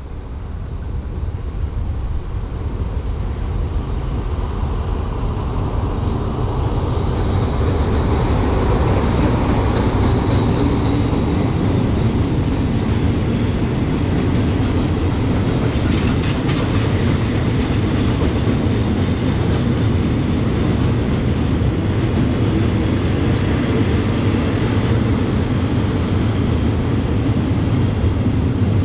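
Diesel-hauled freight train of tank wagons rolling past on the rails, growing louder over the first several seconds as it nears, then a steady, loud rumble of wheels on track.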